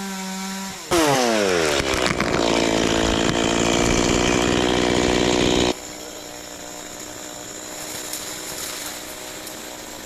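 Two-stroke Stihl chainsaw at full throttle, its engine note sagging in pitch about a second in as it takes load, typical of the chain cutting into wood. Nearly six seconds in the load suddenly comes off and the saw drops to a quieter, steady running note.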